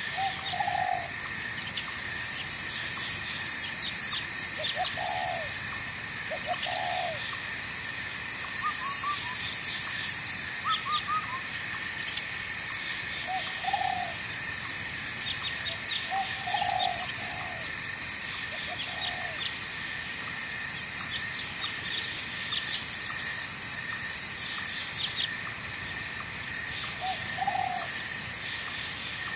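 Night forest ambience: a steady high insect chorus whose buzzing swells and fades every few seconds, with short low hooting calls, owl-like, repeating every couple of seconds over a soft hiss of flowing water.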